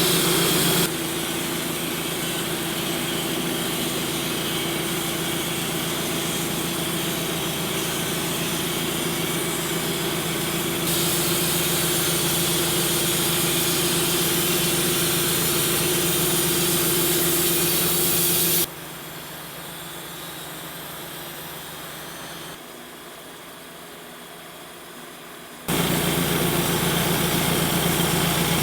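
Woodmizer LT28 portable sawmill's engine running steadily with a constant hum. The level changes abruptly several times: a louder stretch, then a much quieter one between about 19 and 26 seconds, then loud again.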